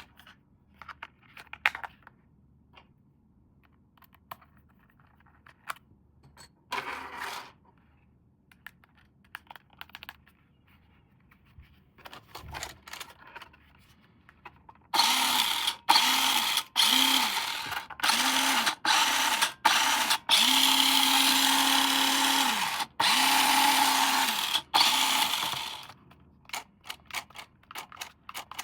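A toy RC car's small electric motor and plastic gears whir in about a dozen short bursts, each spinning up and back down, with one longer run of about two seconds in the middle. Before the bursts, plastic parts click and rattle as they are handled.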